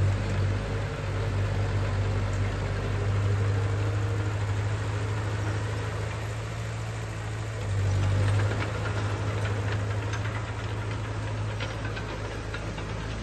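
Heavy construction machine's engine running with a steady low hum, swelling louder about eight seconds in, with faint crackling near the end.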